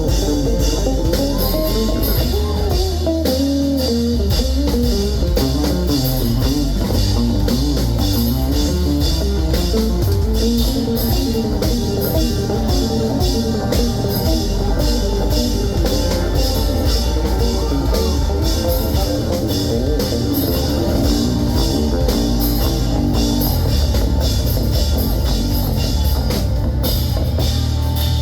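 Live rock band playing: electric guitar, bass and drum kit, steady and loud.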